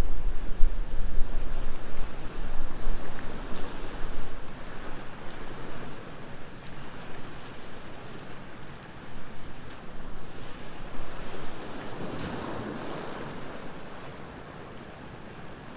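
Sea waves washing onto the shore, one surging up about twelve seconds in, with wind rumbling on the microphone for the first few seconds before dying away. A few faint crackles from a beach campfire come through, and the sound grows quieter near the end.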